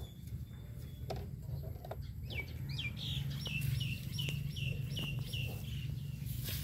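A bird calling in a quick series of short, falling chirps, about three a second, starting about two seconds in.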